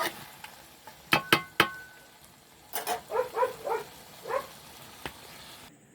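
Three quick metal clinks with a brief ring after them as the cooking pan and a utensil are handled while the finished dish is taken off the stove. A few short vocal calls follow in the background.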